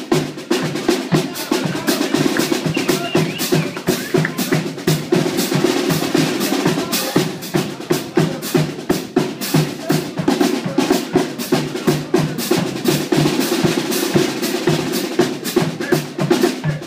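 Live music carried by drums: a steady, fast beat of snare and bass drum.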